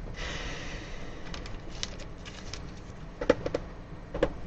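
Trading cards and their packaging being handled: a soft brushing slide, then light clicks and taps, the two sharpest about three and four seconds in.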